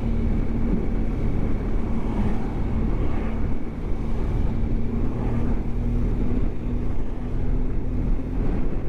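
BMW GS motorcycle engine running at a steady speed, with wind noise on the microphone.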